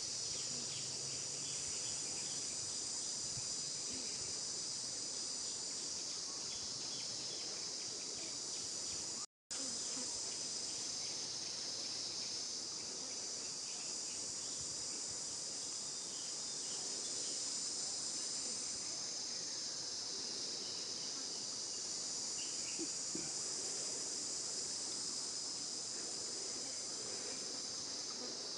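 Steady high-pitched chorus of insects droning without a break, with one split-second dropout about nine seconds in.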